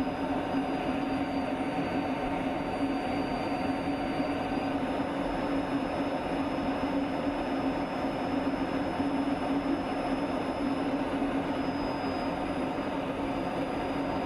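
Steady in-flight aircraft noise during air-to-air refuelling: a constant drone of engines and airflow with a steady low hum.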